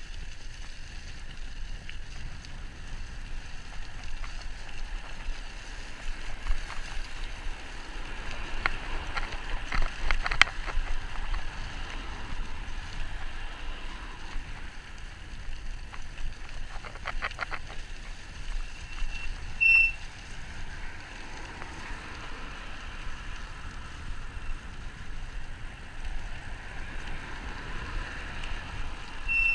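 Steady riding noise from an e-bike rolling along a towpath, with clusters of rattling clicks about ten and seventeen seconds in. A short high tone sounds about twenty seconds in and again at the end.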